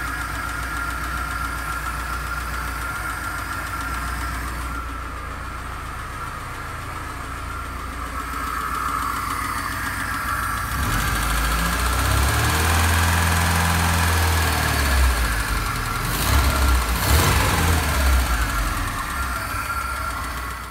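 Lada Niva's four-cylinder petrol engine running at idle, filmed close up in the open engine bay; its speed rises and varies in the second half.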